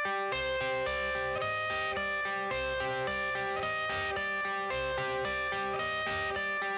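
Music: a guitar picking a steady, repeating pattern of notes, about two a second.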